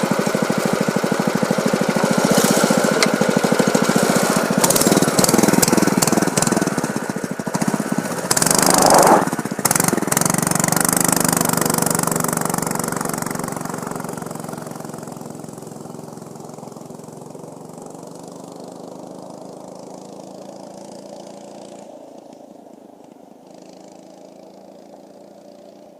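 Baja Warrior 200 mini bike's stock 200cc single-cylinder engine running close by, with a loud burst of noise about nine seconds in, then the engine sound fading steadily as the bike rides away.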